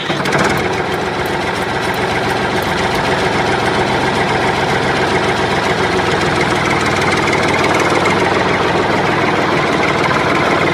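An engine running steadily at idle, with an even, unchanging drone that starts abruptly.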